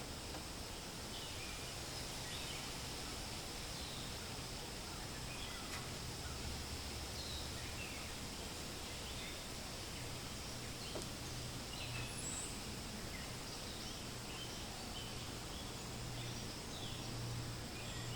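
Forest ambience: steady wind noise with leaves rustling, and birds giving short, scattered chirps throughout.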